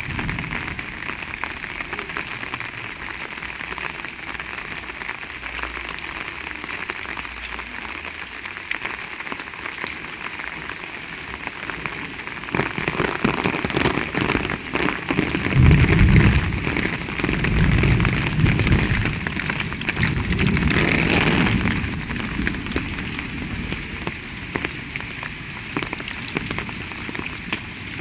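Heavy rain falling steadily as an even hiss. About halfway through, a louder low rumble swells for several seconds and then fades back into the rain.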